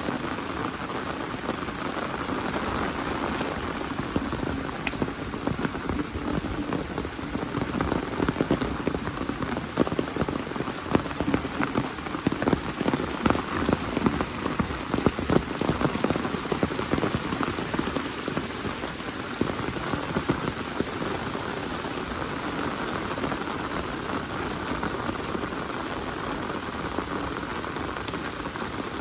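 Heavy rain falling steadily, with close drops ticking sharply through it. The drops come thicker and louder in the middle, then settle back.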